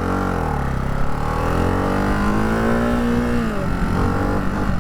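Ducati Hypermotard 698 Mono's single-cylinder engine accelerating under throttle, its pitch climbing for about three seconds, then falling away as the throttle is eased off.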